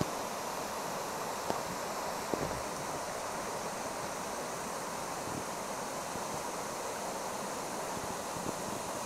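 Mountain stream water rushing steadily over rocks into a pool, a constant hiss with two faint knocks in the first few seconds.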